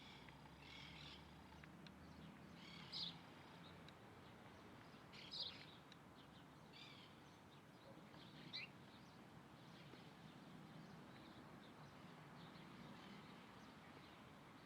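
Birds calling: five short chirps a couple of seconds apart, the last one falling in pitch, faint over a steady background hiss.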